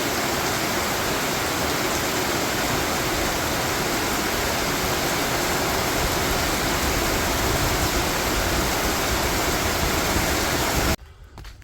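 A steady, even rushing noise that starts and stops abruptly, as an edited-in segment.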